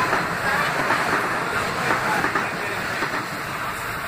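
Metro-North M8 electric train passing the platform at speed: a steady rush of wheel and air noise that eases slightly near the end.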